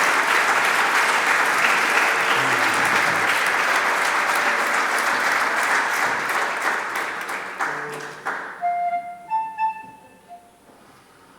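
Audience applauding, the clapping fading out about eight seconds in, with a few last claps; then a few short, clear pitched notes sound briefly before the hall goes quiet.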